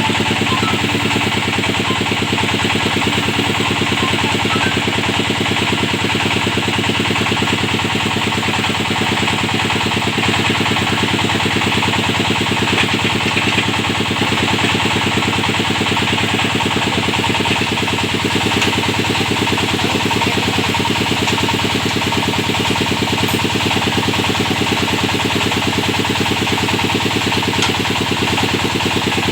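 Engine of a hydraulic well-drilling rig running at a steady speed, with an even, unchanging beat.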